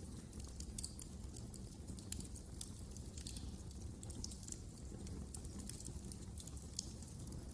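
Wood fire crackling: frequent small, irregular pops and snaps over a low, steady rumble.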